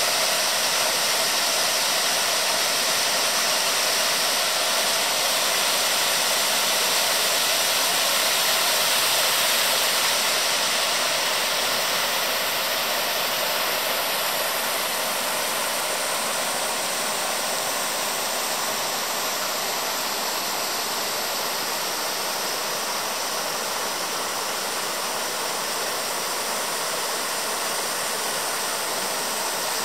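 Waterfall rushing as a steady, even roar of falling water, easing a little about a third of the way through.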